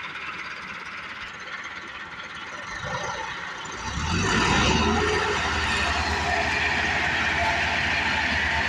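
Tractor engine running, getting louder about four seconds in and then running steadily with a rapid low pulsing.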